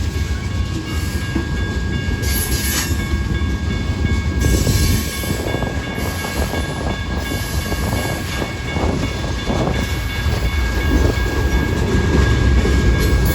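Freight train cars rolling past close by: a continuous low rumble with irregular wheel clatter over the rail joints, and faint steady high tones over it.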